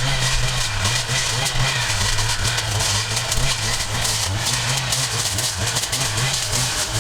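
A petrol engine on yard-clearing equipment running steadily at constant speed, with a low hum that wavers slightly and a dense hiss over it.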